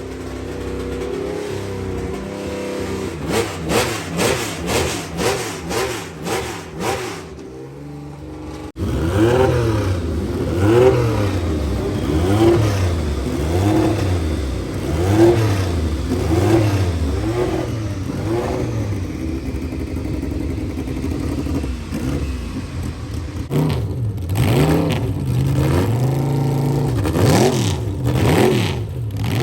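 Car engine being revved: throttle blips rising and falling about once a second, easing to a steadier run, then revving again near the end.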